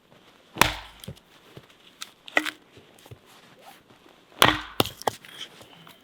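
A tool striking wood: two heavy blows about four seconds apart, a lighter knock between them and a couple of small knocks just after the second blow.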